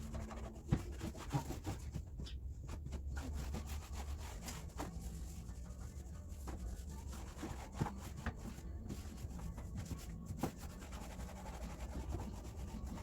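Rubbing and scrubbing of a car's surface being wiped clean by hand, with scattered light knocks.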